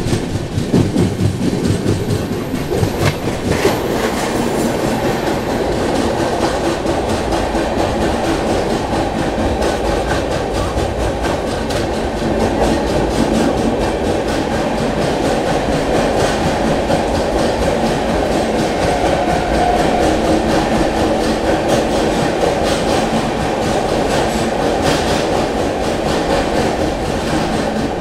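Express train running at speed, the steady noise of its wheels on the rails heard from on board a passenger coach.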